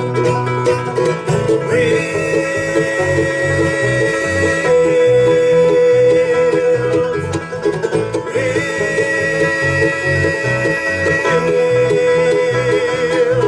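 Live band playing an instrumental passage of a country-style rock song: plucked strings over a steady beat, with a lead instrument holding a long high note twice.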